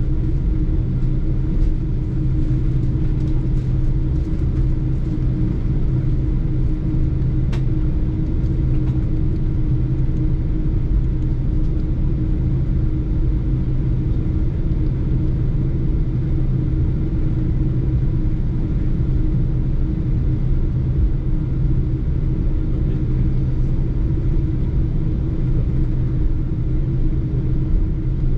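Steady low drone of a Boeing 747-8's GEnx engines and airflow heard inside the cabin, with a constant hum and no change in pitch or level.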